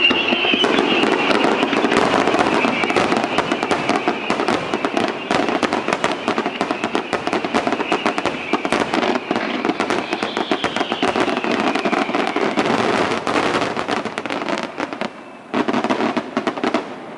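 Fireworks finale: a dense, rapid barrage of crackling and popping shells bursting without pause. It thins briefly about fifteen seconds in, then a last cluster of crackles.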